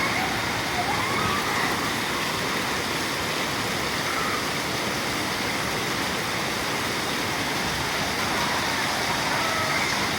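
Steady downpour of rain, an even hiss that holds at one level throughout. A few faint wavering pitched sounds rise and fall above it now and then.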